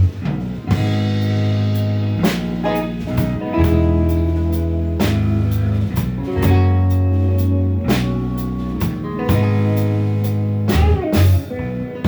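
Band music with no vocals: electric guitar over long held bass notes and a steady drum beat, in a blues style.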